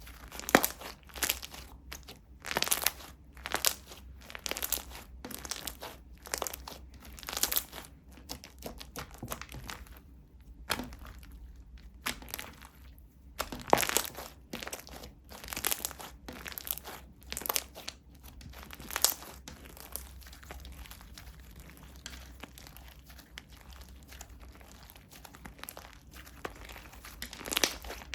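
Slime being squeezed, stretched and pressed by hand, giving irregular crackling clicks and pops as air pockets burst, quieter for a stretch before the end.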